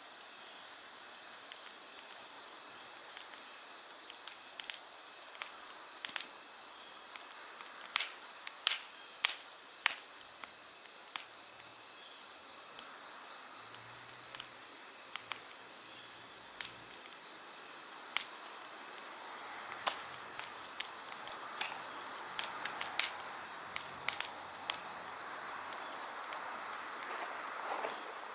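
Wood campfire crackling with scattered sharp pops, a few louder around 8 to 10 seconds in and about 23 seconds in. Behind it, night insects keep up a steady high chorus, with a regular chirp repeating a little faster than once a second.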